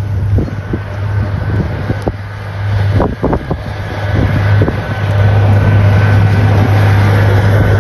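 Wind buffeting the microphone in a heavy, steady low rumble over a vehicle running, with a few knocks about three seconds in.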